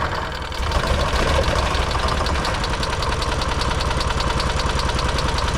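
RV generator's engine cranked by its electric starter, a steady, evenly pulsing churn that does not catch and run. The owner puts the no-start down to fuel boiling in the overheated engine.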